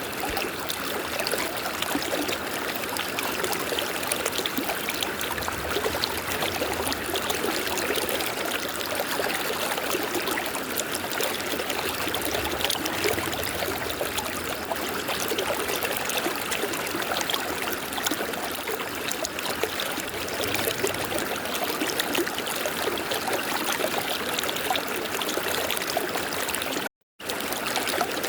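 River water flowing in a steady, even rush and trickle. The sound cuts out for a fraction of a second near the end, then resumes.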